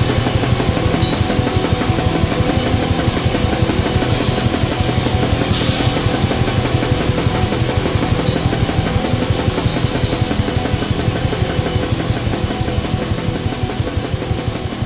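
Raw black metal: a dense, distorted wall of guitar and drums playing without a break, starting to fade out over the last few seconds.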